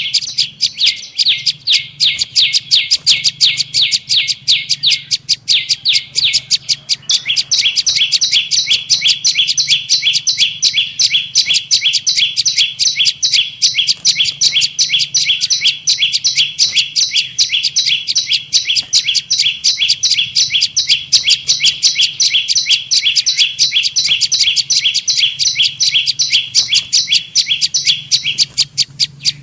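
Prenjak lumut (a prinia) bird-lure call: a fast, unbroken run of high, sharp chirps repeated several times a second, changing pattern about seven seconds in. A faint low hum runs underneath.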